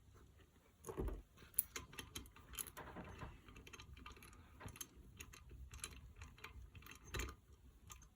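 Small metal engine parts and tools clinking and tapping as they are handled on the crankcase, irregular light clicks, with louder knocks about a second in and again near the end.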